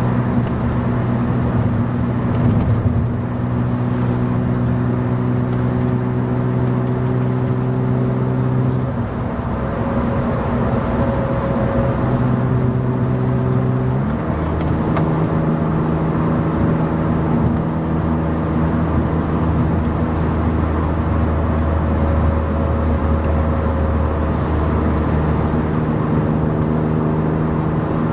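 1997 BMW E36 M3's 3.2-litre straight-six, heard from inside the cabin through a UUC RSC36 cat-back exhaust by Corsa, cruising steadily over tyre and road noise. This is the exhaust's cabin drone at cruise. The engine note steps to a different pitch about 9 seconds in and again about 14 seconds in.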